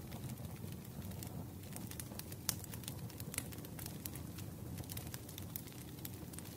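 Wood fire crackling, with frequent sharp pops over a low, steady rumble; the loudest pop comes about two and a half seconds in.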